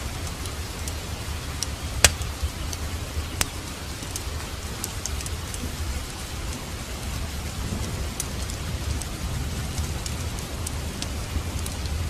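Steady rain with a low rumble underneath, mixed with a wood fire in a fireplace crackling and popping. Two sharp pops stand out, about two seconds in and again a second and a half later.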